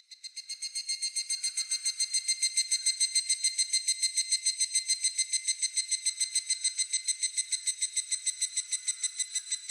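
Higurashi (evening cicada) calling: a rapid run of ringing pulses, about eight a second, that swells over the first two seconds, holds steady and stops near the end.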